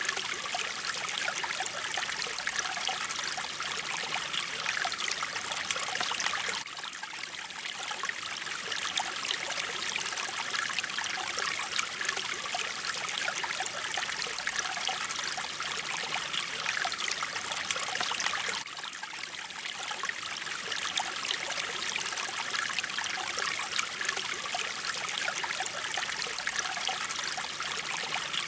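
Mountain stream flowing and trickling steadily, an even hiss of running water. The level dips slightly twice, about twelve seconds apart.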